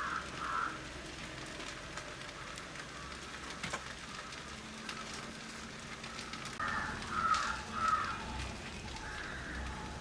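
Rain falling steadily, an even hiss with scattered sharp drips and clicks.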